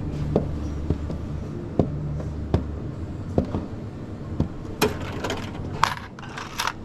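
A coffee machine runs with a steady low hum for the first few seconds, then cuts off. Sharp knocks and clinks of coffee-making gear being handled are scattered through it and grow busier near the end.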